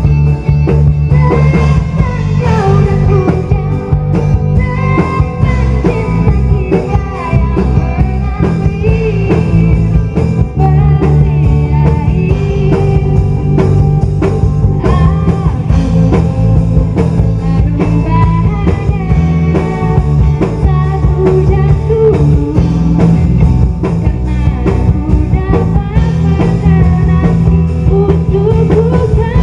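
Rock band music: singing over electric guitar, bass and drums, played loud and steady.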